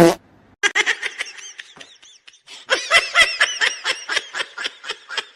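A person laughing hard in two long runs of quick, high-pitched bursts, with a short pause between the runs.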